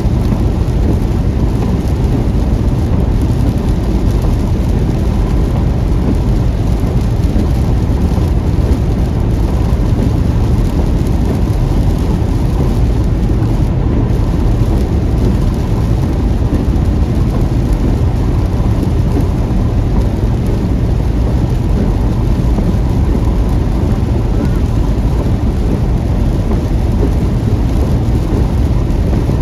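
Car driving through a heavy rainstorm: a steady, deep rumble of road and rain noise with a fainter hiss of rain above it.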